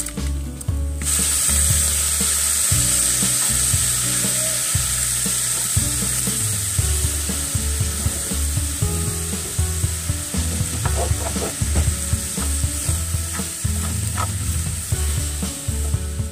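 Ground beef with taco seasoning sizzling in a skillet as it is stirred with a spatula: a steady frying hiss that starts about a second in, with a few light scrapes of the spatula in the pan. Background music plays underneath.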